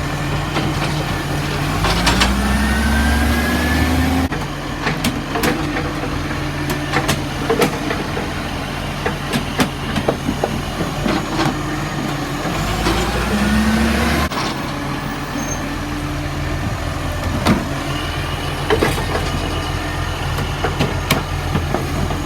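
Garbage truck's engine running steadily with scattered clanks and knocks. Twice, about 2 s in and about 13 s in, the engine revs up for a couple of seconds with a rising pitch and then drops back suddenly, as it does when it drives the hydraulics that lift and empty a bin.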